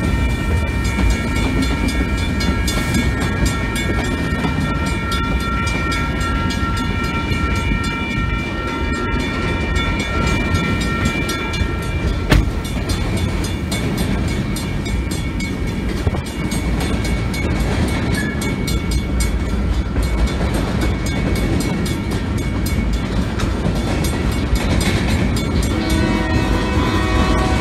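Freight train cars rolling past, a steady heavy low rumble of steel wheels on rail. Several high, steady ringing tones sound over the first half and fade away.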